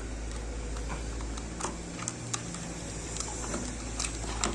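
Scattered small plastic clicks and taps, a few to the second, from batteries being fitted into a battery-powered toy train, over a low steady hum.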